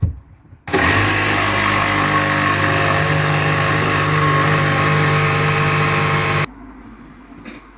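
Handheld power tool, most likely an oscillating multi-tool, cutting an access hole in a side panel, running at a steady speed for about six seconds; it starts a little under a second in and cuts off suddenly.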